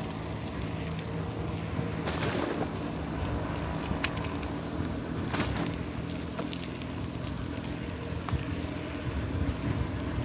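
A motor vehicle engine running steadily with a low, even hum, with a few sharp clicks or knocks over it.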